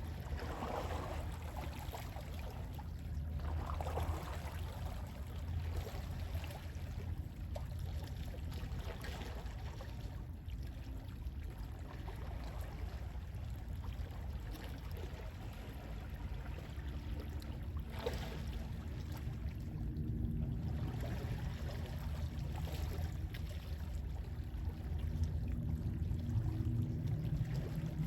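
Gentle sea waves washing in and lapping, over a steady low rumble of sea wind. Now and then a wave swells into a louder splash, near the start and again about two-thirds of the way through.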